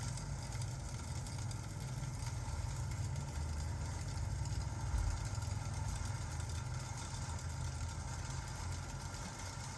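Rain and crackling-fireplace ambience: a continuous low rumble under an even hiss, with faint scattered crackles and a slight swell about halfway through.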